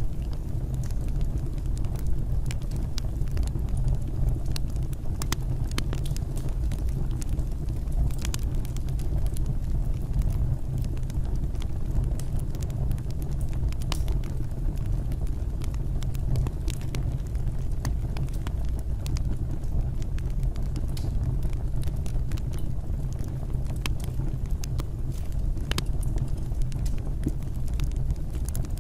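Fire burning in a fireplace: a steady low rumble with frequent sharp crackles and pops scattered throughout.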